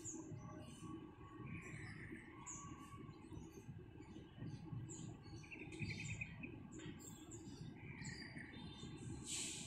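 Small birds chirping in short, scattered calls over a faint steady low rumble.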